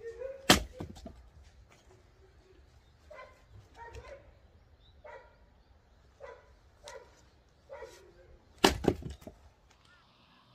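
Two heavy strikes, about eight seconds apart, typical of an axe splitting firewood. Between them an animal calls about six times in short, single calls, a dog's bark or a goose's honk.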